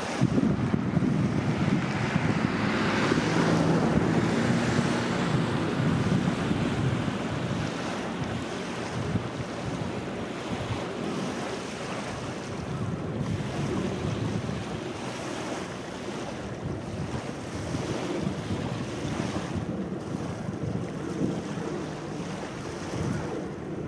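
Sea waves washing against the shore, with wind buffeting the microphone. Louder over the first few seconds, then steady.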